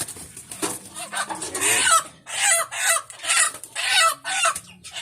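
Chickens clucking and squawking, with a quick run of short, falling calls in the second half.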